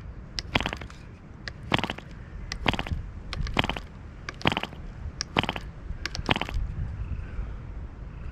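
A MARZ 2.5 cc two-stroke model airplane diesel engine running, a steady low rumble broken by sharp crackling bursts about once a second, which stop for the last couple of seconds.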